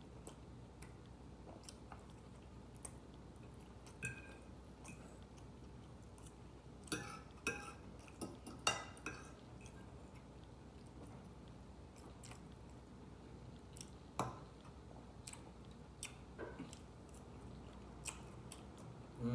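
Quiet chewing of food, with scattered clicks of a metal fork against a plate; a cluster of louder clinks comes about seven to nine seconds in.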